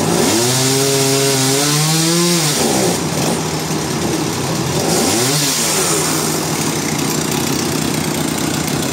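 Engine-driven sawmill machinery running: the engine revs up, holds for about two seconds and drops back, then revs briefly again. A steady hiss runs under it.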